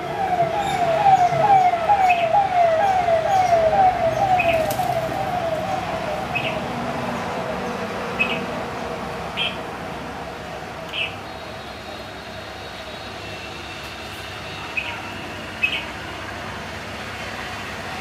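A repeated falling wail, about two or three sweeps a second, swells and then fades away over the first six seconds. Short, high bird chirps come every second or two throughout.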